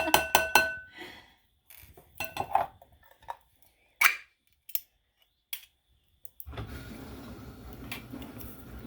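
Metal clinks and knocks of soup cans and a utensil against a bowl as cans of condensed cream soup are opened and emptied: a quick run of clicks at first, scattered knocks after, one sharp knock about four seconds in. A steady low background noise comes in about two-thirds of the way through.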